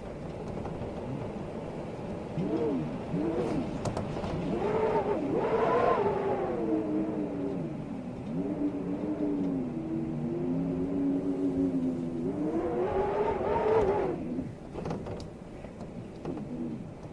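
Storm wind howling in gusts, its pitch rising and falling in moaning swells that peak twice, with a few sharp clicks and rattles.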